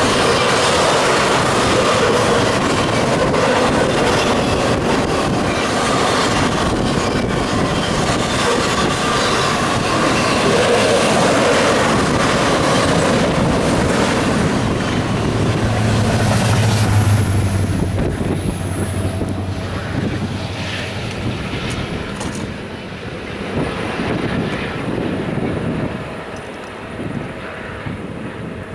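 Union Pacific double-stack container freight train running underneath at speed, its cars passing in a steady loud wash of wheel and car noise. The noise falls off through the last third as the train moves away.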